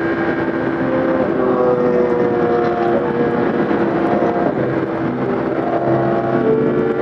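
A vehicle engine running steadily under way, its pitch drifting slowly up and down.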